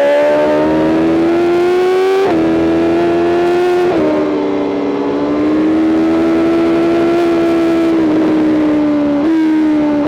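BMW M 1000 RR superbike's inline-four engine at high revs under hard acceleration, heard from the rider's seat: the pitch climbs, then drops sharply at quick upshifts about two and four seconds in. Near the end it falls again and then steps back up briefly, as with a downshift.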